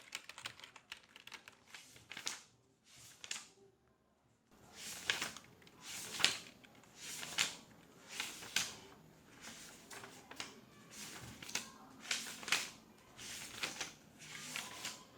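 Office ambience: quick keyboard clicks for the first few seconds, then a run of short rustling, crinkling sounds of paper being handled, about one a second.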